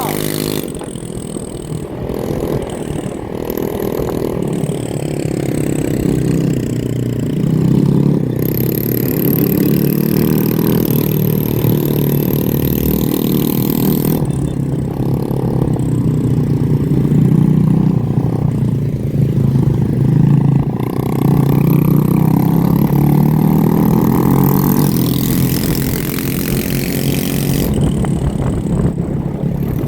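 Motorbike engines running and revving, several at once, with their pitch rising and falling throughout.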